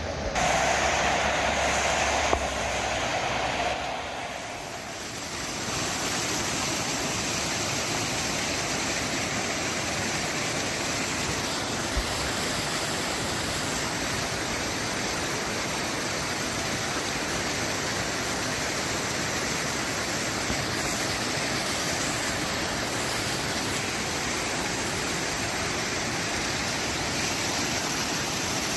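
Rain falling steadily, an even hiss of water. It is louder in the first four seconds or so, with a hum under it, before settling to a constant level.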